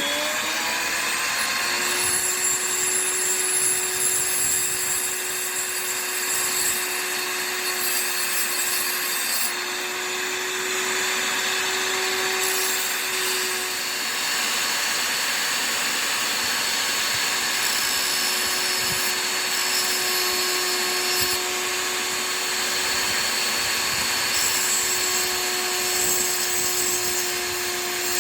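Electric sharpening grinder running steadily, a chisel being ground on it with a continuous gritty grinding noise over the motor's hum. The motor comes up to speed in the first second or two.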